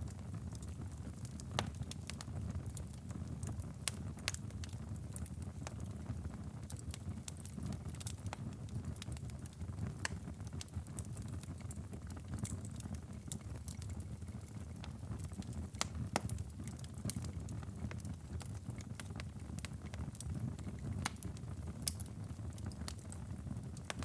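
Wood fire crackling, with irregular sharp pops and snaps scattered over a steady low rumble.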